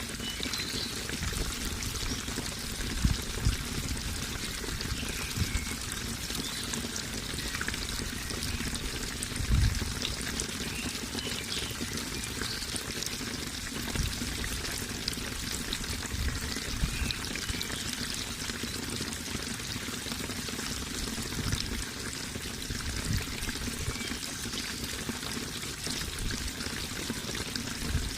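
Flowing water splashing steadily, with a few brief low thuds here and there.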